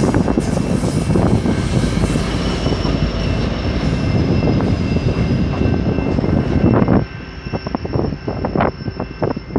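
Commuter train passing with a loud rumble and a faint steady high whine. The rumble drops away suddenly about seven seconds in, leaving scattered knocks.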